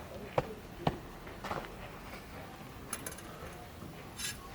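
Fencing footwork and blades: a few sharp thuds of feet stamping on the floor, as in the appel of a feinted lunge, about half a second and a second in, and lighter metallic clicks of smallsword blades meeting near the middle and the end.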